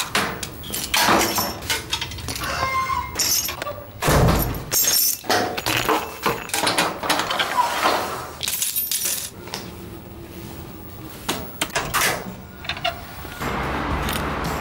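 Irregular clattering knocks and clinks of hard objects, some with a brief ringing tone; a steady hiss comes in near the end.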